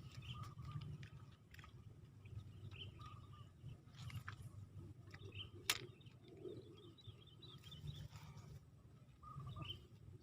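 Small birds chirping on and off over a low, steady rumble. There is one sharp click about six seconds in.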